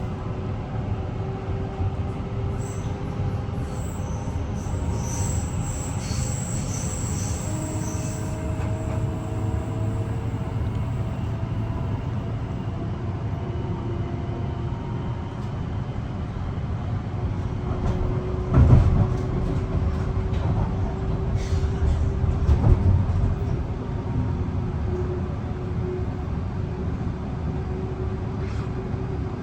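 Electric passenger train running slowly, with steady motor tones that shift in pitch over a low rumble. High wheel squeal a few seconds in, and a couple of loud clunks from the wheels about two-thirds of the way through.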